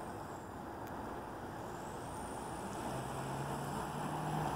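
Metra diesel commuter train approaching, its rumble growing steadily louder, with a low engine hum coming in about three seconds in.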